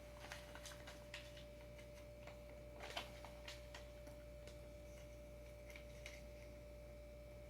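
Faint, irregular light clicks and taps of small hardware being handled while bolts are being removed, one slightly louder about three seconds in, over a steady faint hum.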